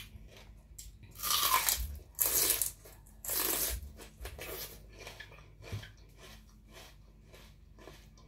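Biting into and chewing a raw bitter melon: three loud crunches in the first four seconds, then softer crunching as it is chewed.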